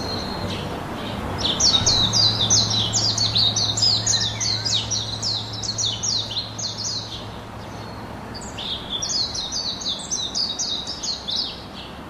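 Bird chirping in rapid runs of short high notes, each sliding downward, about three or four a second. There are two runs with a break of about a second between them, over a steady background hiss and low hum.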